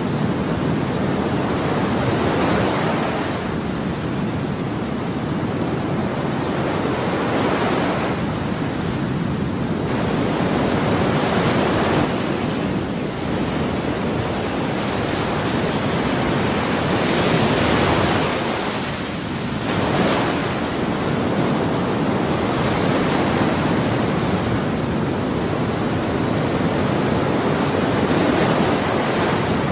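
Ocean waves breaking and washing on a shore, a continuous rush of surf that swells and eases every few seconds, with a stronger surge about two thirds of the way through.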